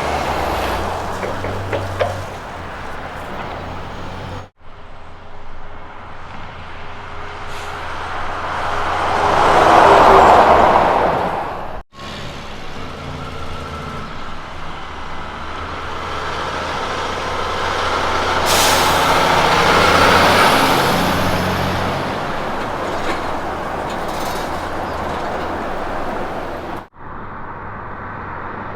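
Diesel road trains driving past, engine and tyre noise swelling as each truck comes close and fading away, over three or four short clips that cut abruptly from one to the next.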